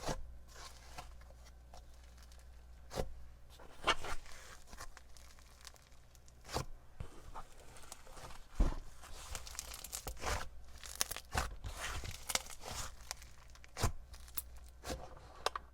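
Slime being squished and stretched by hand: irregular sticky clicks, pops and crackles with short tearing sounds, no steady rhythm.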